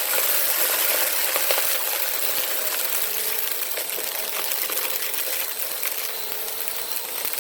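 Bissell PowerForce Compact upright vacuum running over carpet: a steady motor whine under a hiss of airflow, with sand and grit rattling and ticking as they are sucked up through the nozzle.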